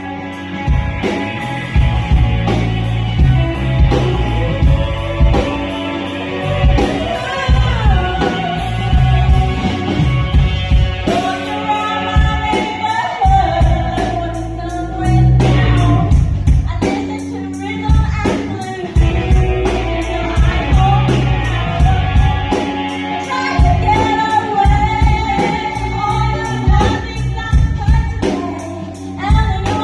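Rock band playing live, with a lead vocal sung over drums, bass and guitars. A steady, fast stroke of cymbals keeps time throughout.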